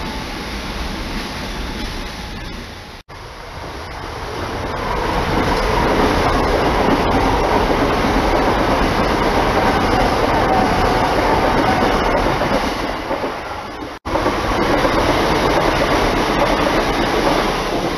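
Electric passenger train passing at speed: a steady rumble of wheels on rail that swells to its loudest through the middle. The sound cuts out abruptly twice, for an instant each time, at about 3 and 14 seconds.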